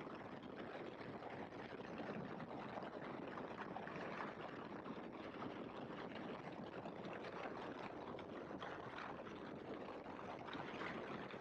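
Steady rushing wind and engine noise in the open cockpit of a Great Lakes biplane, an even, unchanging hiss-like roar with no distinct engine beat.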